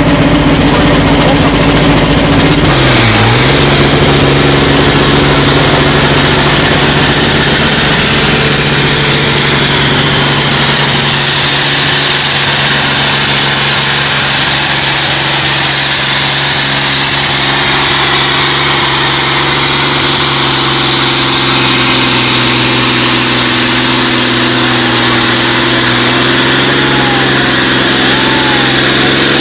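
Tractor-pulling tractor's engine running loud and steady. Its pitch dips briefly and recovers about three seconds in, when a high whine comes in and holds.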